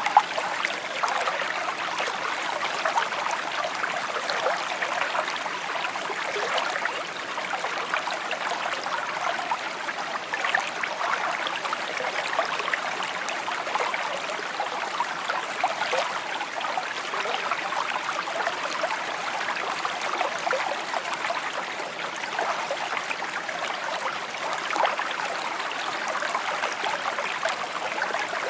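Small shallow creek burbling and trickling over stones, a steady babble of many small splashes.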